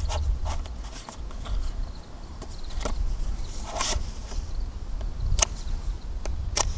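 Wood campfire crackling: irregular sharp snaps and pops, with a low wind rumble on the microphone that fades after the start.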